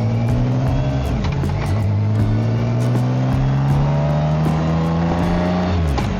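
BMW K1600GT's inline-six engine accelerating through the gears. The exhaust note rises steadily in pitch, drops at an upshift about a second in, climbs again for several seconds, and drops at another shift near the end.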